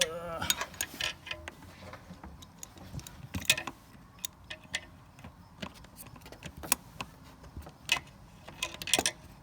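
Hand tools clicking and clinking as a Torx socket and ratchet are fitted together and set onto a small bolt, with sharp irregular metal clicks throughout.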